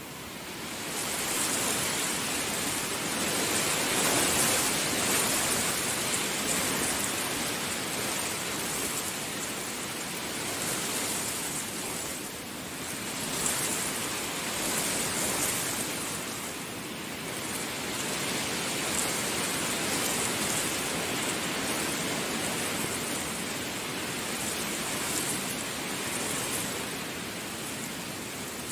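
Heavy rain falling steadily, a dense hiss that swells and eases every few seconds, with no thunder heard.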